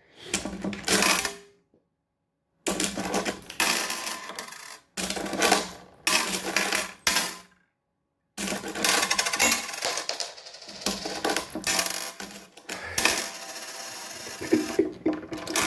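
Metal coins clinking and scattering as a parrot tosses them across a table, in bunches of jingling clatter broken by a few short silences.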